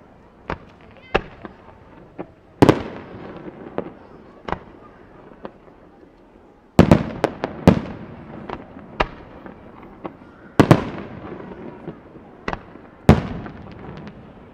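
Aerial fireworks shells bursting in an irregular series of sharp bangs, each trailing off in a rolling rumble. The loudest bursts come about a sixth of the way in, in a tight cluster around halfway, and twice more near the end.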